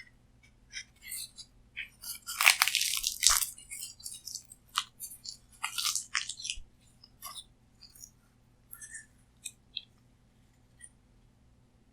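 Close-miked eating sounds: a loud crunching bite about two and a half seconds in, then chewing with smaller crunches, thinning to a few scattered mouth clicks in the last few seconds.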